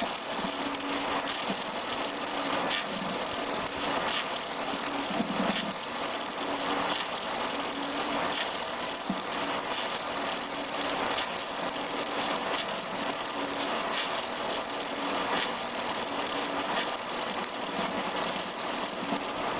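Wood milling-turning machine for log-house timber running, a steady mechanical din with a low hum that comes and goes.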